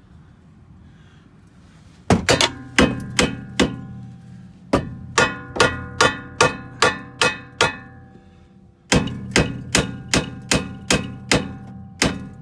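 Hammer blows on the steel rear suspension of a 2006 Chevy Malibu, struck to free a rusted part while the coil spring is worked out. The blows come in two runs of about two or three a second, with a pause of about a second between them, and each strike leaves the metal ringing.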